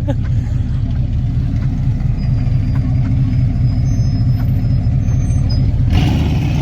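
Deep, steady engine rumble of a big truck rolling slowly past close by. About six seconds in, the sound changes abruptly.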